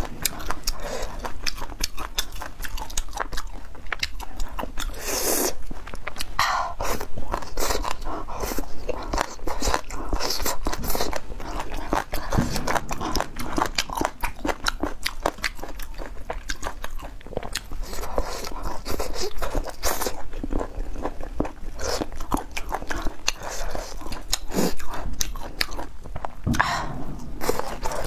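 Close-miked chewing and crunching of spicy beef strips and pickled vegetable roots, a dense run of crisp bites and wet chews.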